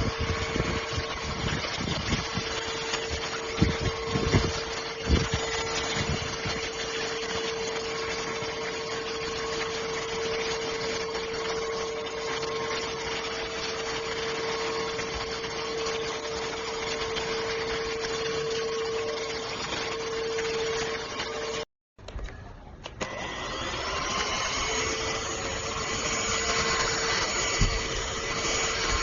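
Cordless handheld vacuum cleaner running with a steady motor hum and suction noise, with a few knocks in the first few seconds. The sound cuts out briefly about three-quarters of the way through, then the vacuum is running again.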